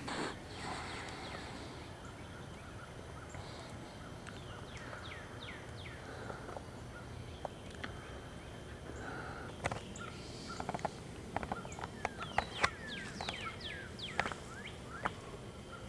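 Woodland birds chirping: many short calls that sweep down in pitch, growing denser in the second half, with a few sharp clicks or snaps standing out as the loudest moments.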